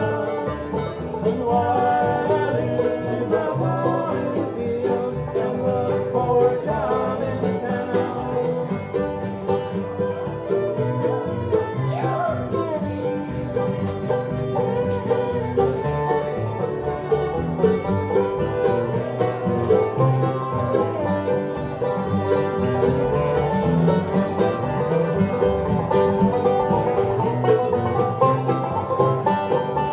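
Live bluegrass band playing an instrumental passage, with banjo picking and guitar strumming.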